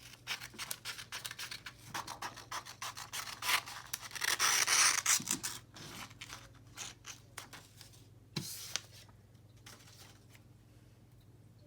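Scissors snipping through a sheet of paper to cut off the excess, with paper rubbing and rustling; the cutting is busiest in the first half and thins out after about six seconds.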